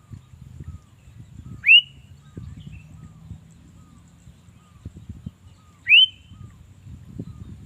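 Sooty-headed bulbul (kutilang) calling: two loud, short whistled notes that sweep upward, about four seconds apart, with faint soft chirps between them, over a low background rumble.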